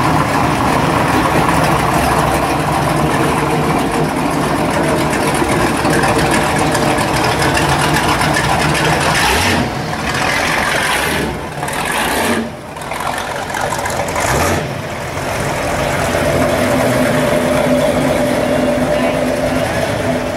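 V8 engines of classic American muscle cars running at low speed as they cruise past one after another, with the chatter of a crowd of onlookers. The level dips briefly a few times around the middle.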